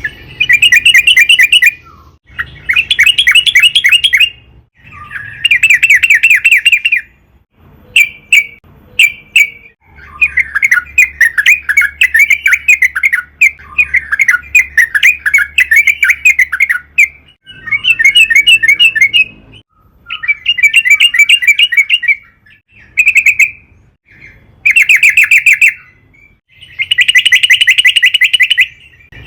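Yellow-vented bulbul singing loudly in repeated phrases of rapid chattering notes, each about two seconds long with short gaps between. A longer unbroken run comes in the middle.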